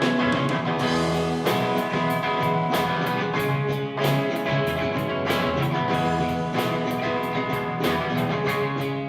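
Live rock band playing an instrumental passage: guitar over drum kit, with cymbal strokes keeping a steady beat of about four a second.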